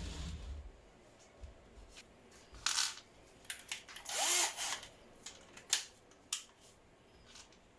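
A power tool run in several short bursts, the longest about four seconds in, with sharp clicks and knocks between them.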